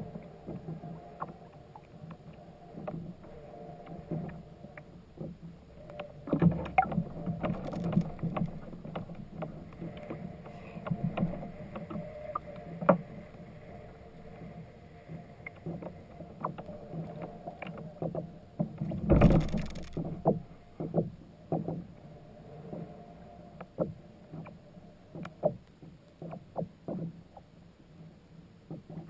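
Kayak afloat: water sloshing around it and scattered small knocks against the hull, with one louder thump about two-thirds of the way through.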